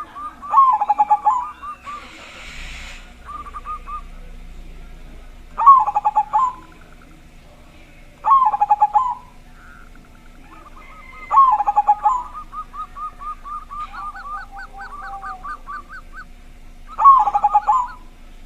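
Zebra dove (perkutut) with a big, deep voice cooing: five loud, short cooing phrases a few seconds apart, with fainter rapid repeated cooing notes between them.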